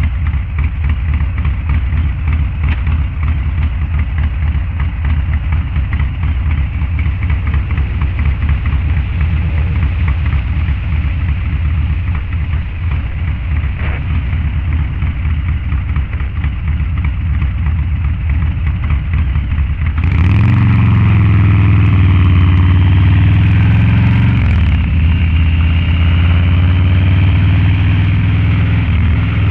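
Harley-Davidson Low Rider's 129 cubic inch V-twin with a Cycle-Rama CR485 cam and Two Brothers Racing exhaust, rumbling steadily at low revs. About two-thirds of the way in the throttle opens: the exhaust gets louder and the revs climb, dip briefly, then hold higher.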